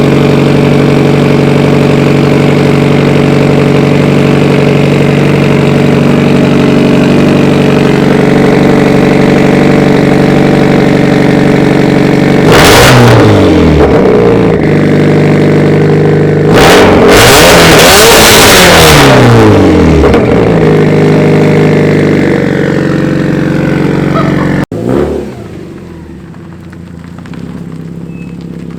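A 2015 Subaru STI's turbocharged flat-four, straight-piped through a catless downpipe and a Tomei exhaust, idling loudly. About twelve seconds in it is revved briefly and falls back to idle, then it is revved again a few seconds later, held longer, and settles back. Near the end the sound drops abruptly to a quieter idle.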